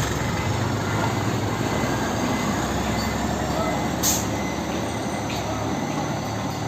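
Heavy diesel truck engine running steadily with a low hum, with a short sharp hiss about four seconds in.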